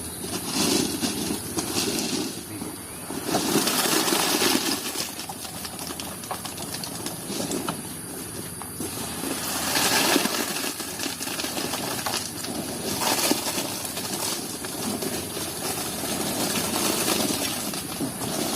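Concrete work on a ditch base: a gritty, uneven scraping with many small clinks, as wet concrete and gravel are worked, growing louder about four seconds in and again about ten seconds in.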